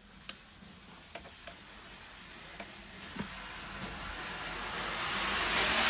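A few light clicks and taps in the first three seconds. Then a steady road hiss grows louder toward the end, like a car approaching and passing.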